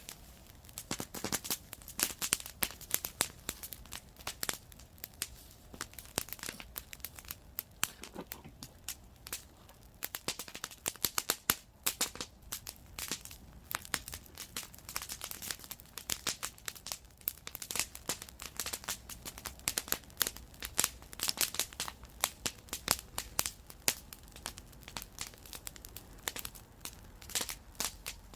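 Wood campfire crackling: a dense, irregular run of sharp snaps from the burning wood, with louder pops scattered among them.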